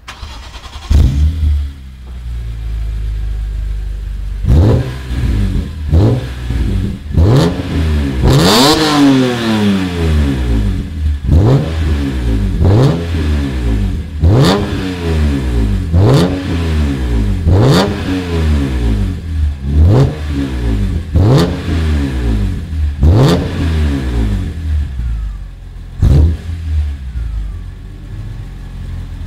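BMW M3 E46's 3.2-litre straight-six with an aftermarket sport exhaust, revved repeatedly while standing. It gives about fifteen quick blips that shoot up and drop back to idle roughly every second and a half, with one longer rev about eight seconds in. It settles to idle near the end.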